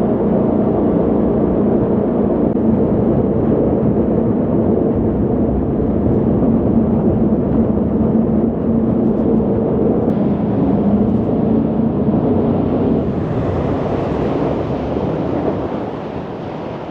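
Tour jet boat's engine running hard with water and wind rushing past, a steady hum under the noise as it runs a Class III riffle. After about two thirds of the way the engine hum fades into a higher hiss of water, and the sound drops off near the end as the boat slows.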